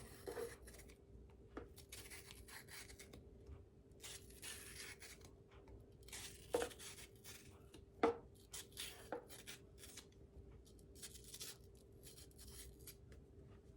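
Faint food preparation by hand: repeated short rasping scrapes with a few sharp knocks, over a faint steady hum.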